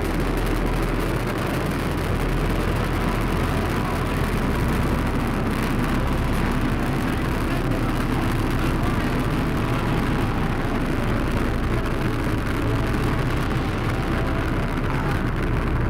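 Steady, low rumbling roar of the Super Heavy booster's Raptor engines firing for the landing burn.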